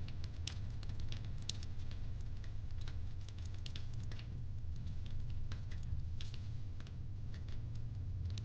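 Fireplace crackling: irregular, sharp little pops and snaps over a steady low rumble.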